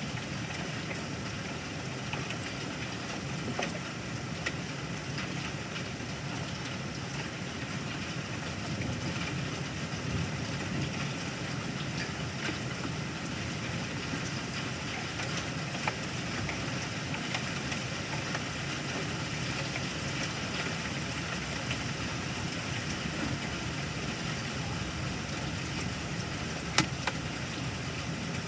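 Steady rain falling during a thunderstorm, with scattered faint ticks of drops striking a hard surface and one sharper tick near the end.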